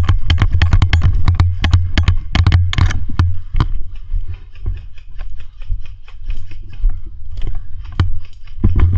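Footsteps and the knocking of gear on a moving body-worn camera: a quick, irregular run of clicks and knocks over a low rumble, thinning out and getting quieter about four seconds in.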